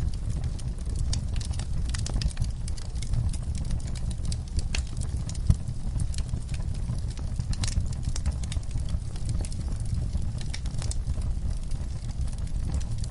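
Wood fire burning in a fireplace: a steady low rumble of flames under irregular crackles and pops from the burning logs, with one louder pop about five seconds in.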